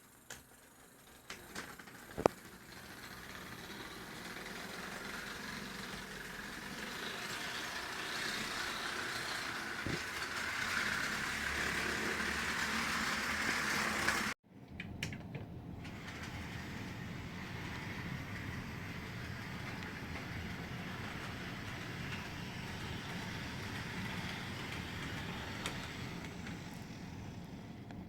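HO scale model train running along the track, its motor and wheels making a steady noise that grows louder for about fourteen seconds. The noise breaks off abruptly, then carries on at a steadier level. A single sharp click about two seconds in is the loudest moment.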